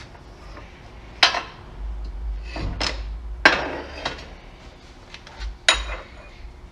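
Sharp metal clanks and knocks of tools against a steel engine mount and its bushing as the bushing is worked into the mount; three loud strikes stand out, about a second, three and a half seconds and nearly six seconds in.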